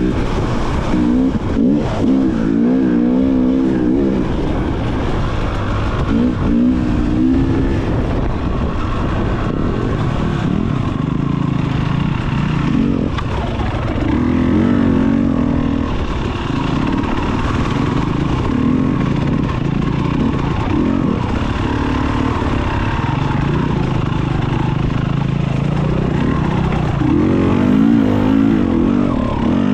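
2019 KTM EXC 300 TPI two-stroke enduro engine being ridden, its revs rising and falling with the throttle and with several short bursts of higher revs between spells of lower, steadier running.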